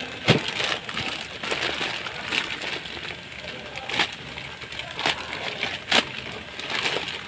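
Hand tools and parts being handled in a repair: a series of sharp clinks and knocks, about half a dozen spread over several seconds, with rustling in between.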